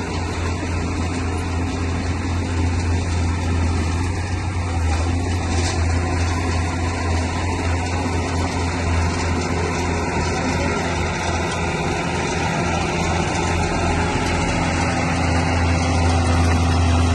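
Bulldozer's diesel engine running steadily, a deep continuous drone that grows slightly louder toward the end.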